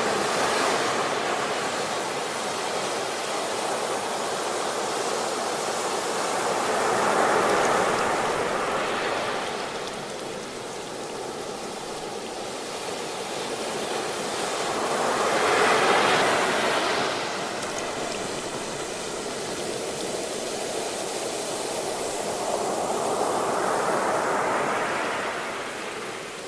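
Ocean surf: waves breaking and washing in, four surges about eight seconds apart, each swelling and then fading.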